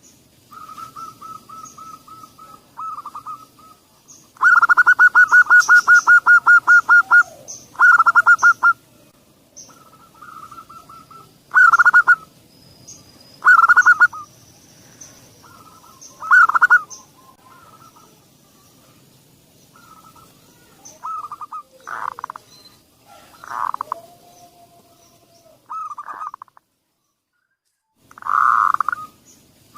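Zebra dove (perkutut) song: a rapid run of staccato coo notes about four to seven seconds in, then shorter coo phrases every second or two. It is a lure recording, played to get a silent perkutut to start singing.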